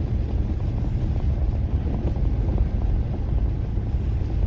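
Steady low rumble of a pickup truck driving up a slushy road, heard from inside the cab: engine and tyre noise from studded snow tires, with no change in pace.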